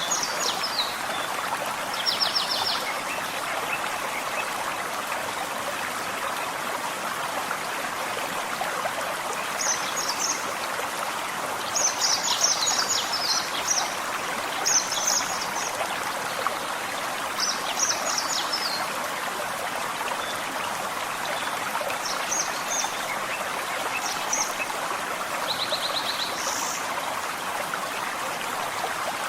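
Forest stream running steadily, with birds singing short, high chirping phrases every few seconds over it.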